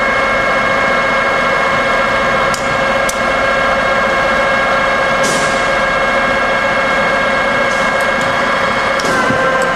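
Cincinnati No. 12 rise-and-fall milling machine running through its power cycle: a steady motor and gear whine with several sharp clicks, and the pitch of the whine shifts shortly before the end.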